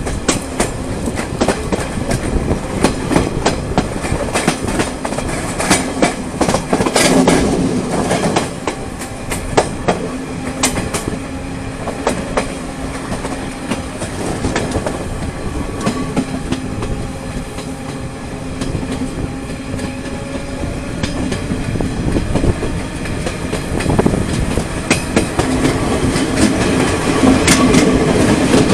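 Serie 442 electric train running on the rails: wheels clicking over rail joints amid a continuous rumble, with a steady low hum from the train.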